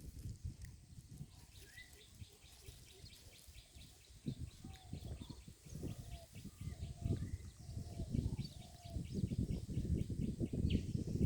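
Birds calling: a short note repeated about every half second in the middle of the stretch, over a rapid, even chirping higher up, with a low rumbling noise underneath.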